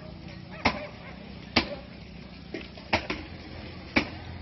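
A series of sharp knocks, about five or six of them at uneven gaps of roughly a second, over a low steady background.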